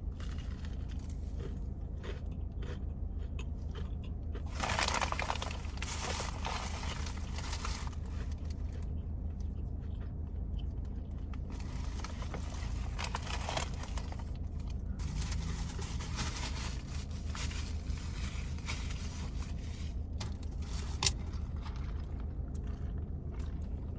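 Close-up eating sounds: crunching and chewing of fried chicken, with scraping and rustling in irregular spells over a steady low hum. One sharp click comes about 21 seconds in.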